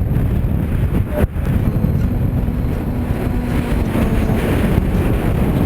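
Strong wind buffeting the microphone: a loud, gusting low rumble, with a brief drop about a second in.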